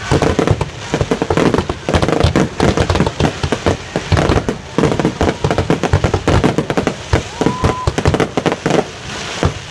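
Fireworks display going off in a rapid, dense run of overlapping bangs and crackles, with a short whistle about three quarters of the way through.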